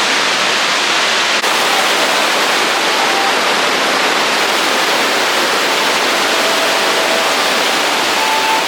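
Rushing water of a mountain stream or waterfall: a loud, steady roar with little low rumble.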